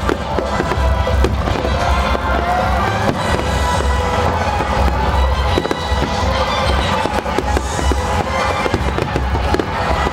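Aerial fireworks bursting one after another in quick succession, with a deep rumble, over the show's accompanying music.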